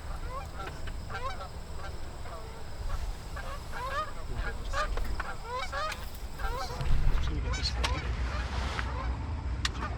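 A flock of Canada geese honking, many overlapping short rising calls repeated in quick succession, busiest through the middle.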